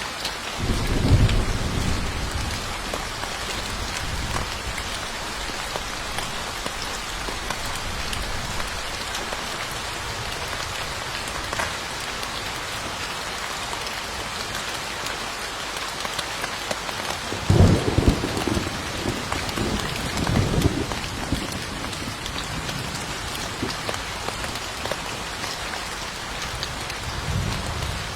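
Steady rain falling, with low rumbles of thunder about a second in and again for a few seconds around two-thirds of the way through.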